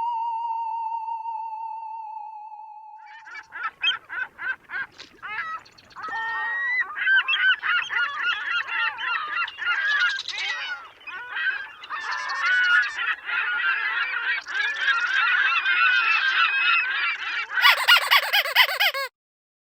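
A flock of geese honking continuously, many calls overlapping. A wavering electronic tone fades out over the first few seconds before the honking starts, and a harsher, rapidly pulsing stretch comes just before the sound cuts off abruptly.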